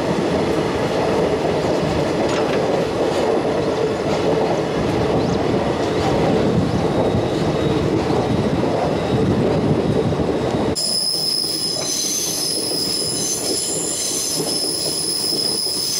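Passenger train coach running on the track, heard from an open door: a steady, dense rumble of wheels and rails. About eleven seconds in it switches abruptly to a high, steady squeal of the wheels on a curve.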